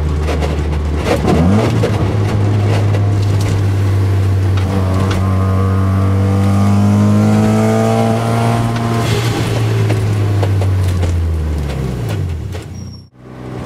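Mazda RX-7 FD3S's single-turbo 13B rotary engine heard from inside the cockpit, running at steady revs while cruising. Its pitch jumps briefly about a second in, a second tone slowly rises through the middle, and near the end the revs fall and the sound drops out sharply for a moment.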